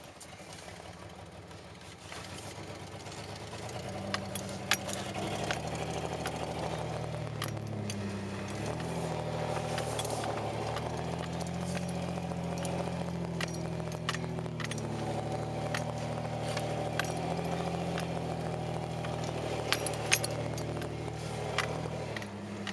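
1991 Ford Ranger pickup driving in four-wheel-drive low, its engine pulling steadily and shifting pitch a few times as it speeds up and slows, with loose parts of the truck rattling and clicking. The engine eases off near the end.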